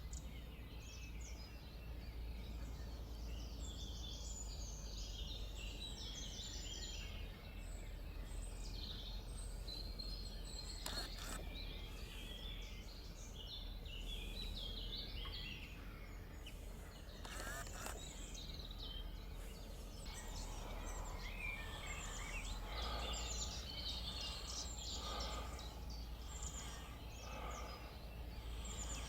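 Garden songbirds singing and calling, with many overlapping high chirps and trills, over a steady low hum. About two-thirds of the way in, a lower call starts repeating at an even pace.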